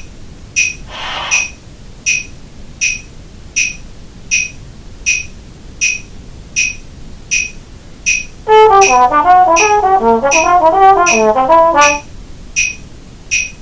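Metronome clicking steadily at about 80 beats a minute. About eight and a half seconds in, a trombone joins with a quick run of notes over the clicks for about three and a half seconds: the etude lick practised near tempo.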